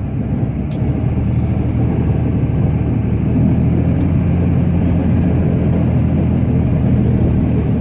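Cummins straight-six turbodiesel of a Ram pickup running steadily under load while pushing snow with a plow, heard from inside the cab. The drone grows a little louder about three seconds in.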